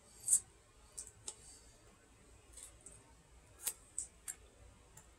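Mouth noises of a person chewing: about seven short, sharp lip smacks and clicks, spaced irregularly, over faint hiss.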